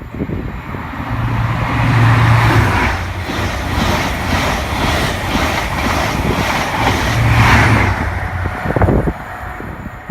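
LNER Class 800 Azuma train (800104) passing through the station, with a rhythmic clatter of about two beats a second and a low hum that swells twice.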